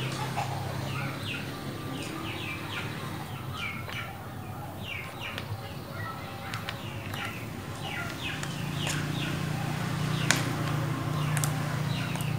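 Small birds chirping over and over, each call a short falling note, several a second. A low steady hum comes in about eight seconds in, and there is one sharp click near the end.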